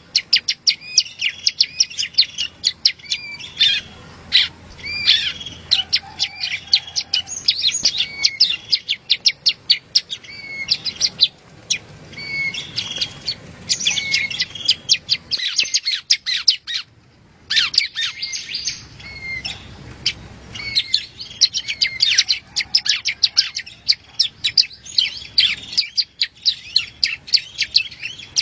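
Yellow-bellied prinia (prenjak rawa) singing: fast, continuous runs of high, sharp chirps and short trilled notes, with a brief pause about seventeen seconds in.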